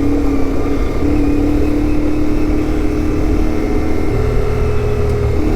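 CFMOTO 450MT adventure motorcycle's parallel-twin engine running steadily while riding, with a low rumble and wind noise. The engine note shifts pitch about a second in and again about four seconds in.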